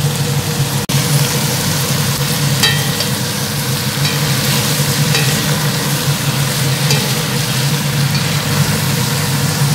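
Cabbage, onion and chopped boiled egg sizzling in hot oil in a frying pan while being stirred with a spatula, with a spatula scraping the pan now and then over a steady low hum.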